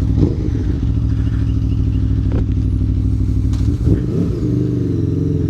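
Aprilia Tuono V4 Factory's V4 engine running through an exhaust with the baffle removed, holding a steady note with a brief change in pitch about four seconds in.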